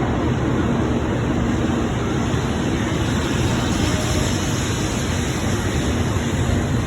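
Shinkansen Nozomi train running, a steady rushing noise with a faint low hum and no distinct knocks or signals.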